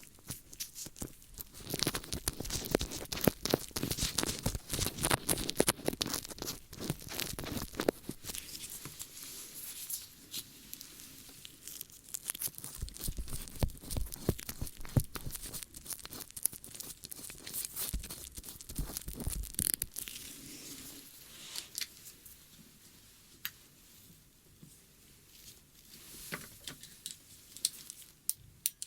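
ASMR ear-cleaning sounds: close, dense scratching and crackling of ear-cleaning tools rubbing. The crackle is busiest and loudest in the first third, with a few heavier low rubs midway, and thins out toward the end.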